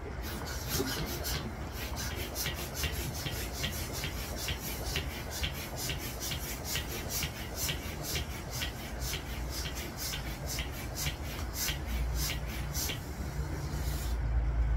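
Hand balloon pump worked in quick strokes, a short puff of air about three times a second, inflating a latex balloon; the pumping stops shortly before the end.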